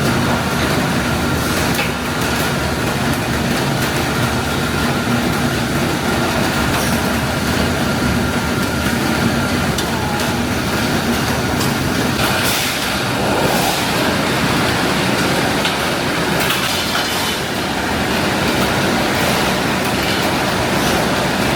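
Factory machinery running steadily: a loud, dense mechanical rumble with a faint steady whine held through it.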